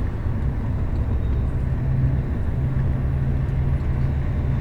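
Bus running along the road, heard from inside the passenger cabin: a steady low engine hum over road rumble, the hum growing stronger about two seconds in.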